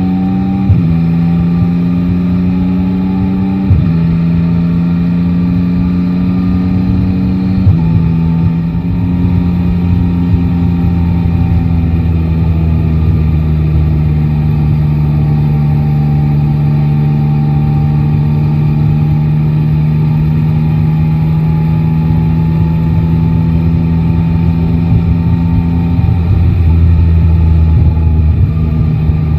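Yamaha Tracer 9 GT's three-cylinder engine pulling away: the pitch climbs and drops sharply three times in the first eight seconds as the rider shifts up through the gears. It then cruises at a steady, slowly easing pitch, growing a little louder near the end.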